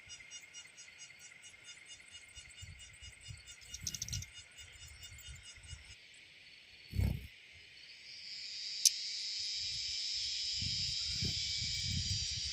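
Insects calling steadily in a high, finely pulsing chorus, joined about two-thirds of the way in by a louder, even buzz that swells and holds. Scattered low rumbles and a dull thump run underneath.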